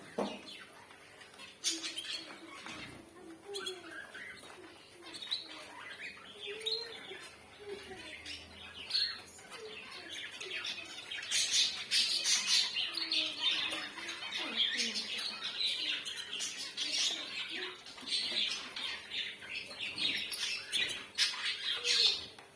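Zebra finches calling: many short chirps overlapping in a dense chatter, growing busier and louder about halfway through.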